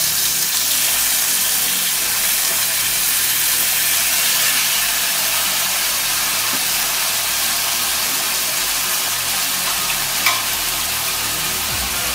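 Freshly added chopped tomatoes sizzling in hot oil in a kadhai with garlic and curry leaves, a steady high hiss. A short click about ten seconds in.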